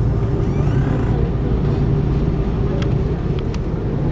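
Steady cabin rumble and hum of an Airbus A330-300 taxiing, its Rolls-Royce Trent 700 engines at low taxi power, heard from inside the passenger cabin. A few faint clicks come in the second half.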